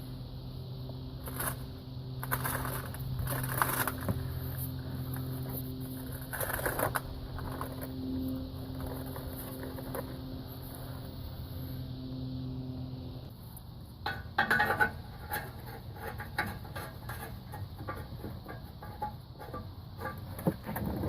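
A steady mechanical hum with a few knocks, then from about 14 seconds in a busy run of clicks and knocks: hands and tools working on a car's exhaust, fitting the muffler onto its rubber hangers.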